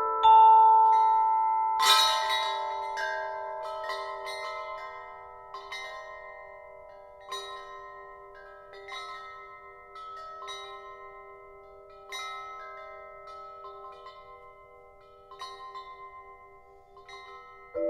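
Vibraphone and found metal chimes: a vibraphone chord struck and left ringing, then a bright clash of chimes about two seconds in, followed by sparse light chime strikes over the long sustained tones as they slowly fade.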